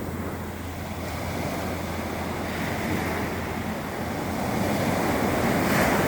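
Sea waves washing and breaking, the surge building to its loudest break near the end, with some wind noise on the microphone.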